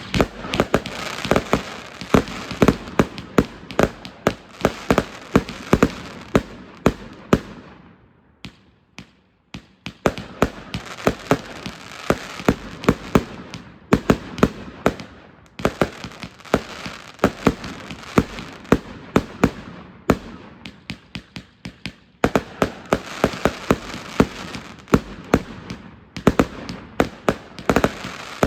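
Child's Play 555-shot consumer firework cake firing rapid shots, several a second. The barrage thins out briefly about eight seconds in and again near twenty-two seconds before carrying on.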